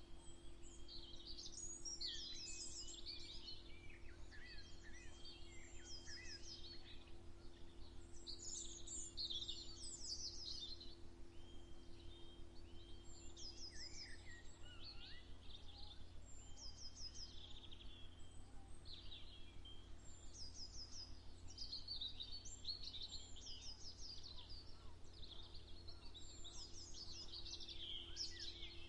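Several small birds singing and chirping, with overlapping short trills and repeated notes, over a steady low hum.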